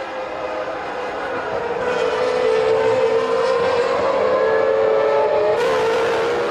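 A 1995 Formula One car's 3-litre racing engine at high revs, growing louder and slowly rising in pitch as it accelerates. It turns suddenly brighter and fuller near the end.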